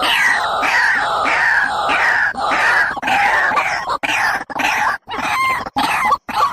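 Recorded bird call played as a trapping lure: harsh, falling notes repeated about twice a second, breaking into shorter, sharper chirps near the end.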